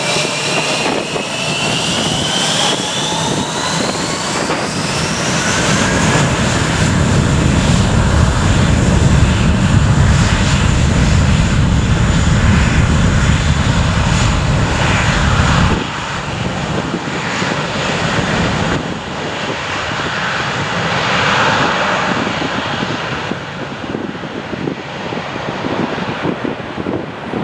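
Airliner engines spooling up to takeoff power with a rising whine, building into a loud deep roar. The roar drops off suddenly about sixteen seconds in, leaving a lower, steady rumble.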